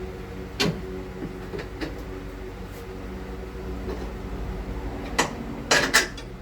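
Metal hand tools clinking and knocking against metal parts, a few sharp clicks spread out and a louder cluster near the end, over a steady background hum.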